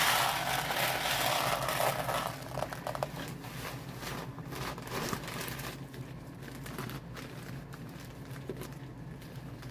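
Birdseed poured from a bag into the bird feeder: a steady rushing pour for about the first two seconds, then the bag crinkling with scattered small seed clicks.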